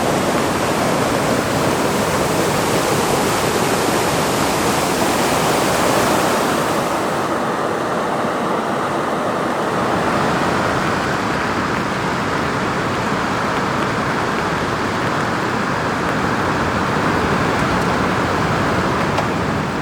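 Steady rush of fast-flowing mountain river water. About seven seconds in the high hiss drops away, leaving a duller, lower rush.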